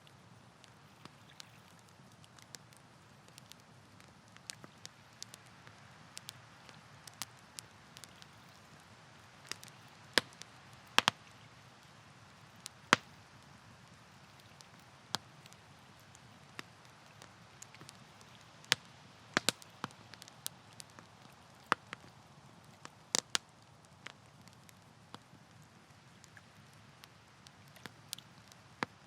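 Campfire burning, the wood crackling and popping in sharp, irregular snaps over a soft, low hiss, with a few louder pops among them.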